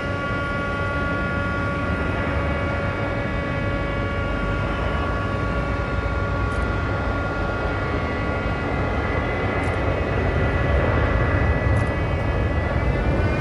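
Korean Air Airbus A330-300's twin jet engines running, a steady whine of several tones over a low rumble, growing louder near the end.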